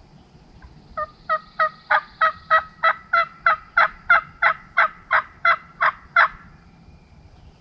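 Hen turkey yelps made on a turkey call, a long evenly spaced series of about three yelps a second that starts about a second in and runs for about five seconds. It is a locating call, sent out to check whether the gobbler will answer.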